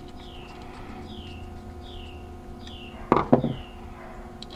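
A bird chirping over and over, each chirp a short falling note, about one a second, over a steady low hum. A brief louder double sound comes about three seconds in.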